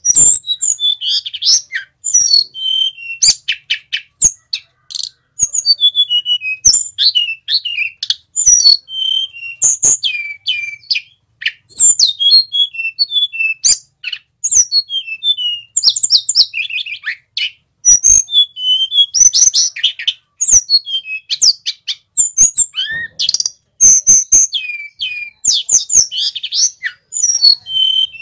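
Male sulingan gunung, a blue flycatcher, singing a fast, continuous song of varied short whistles, sliding notes and trills, with only brief pauses between phrases.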